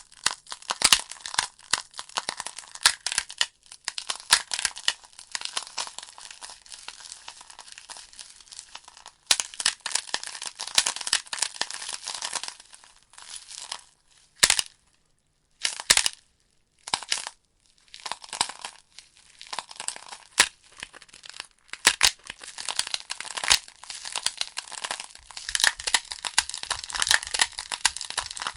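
Wood fire burning in a fireplace: a constant crackle of sharp, irregular pops and snaps over a soft hiss. It thins to near silence for a couple of seconds about halfway through, then crackles on.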